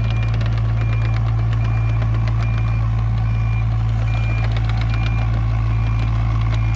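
Mini excavator engine running steadily under work, with a backup alarm beeping at a steady pace, about one beep every 0.8 seconds, and scattered short clanks.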